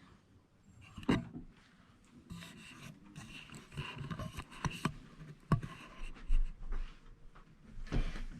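Handling noise: rubbing and scraping with a few light knocks scattered through it.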